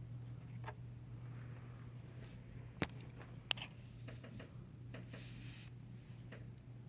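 A few small clicks and ticks of lock parts being handled on a bench, with two sharp clicks about a second apart near the middle, over a steady low hum.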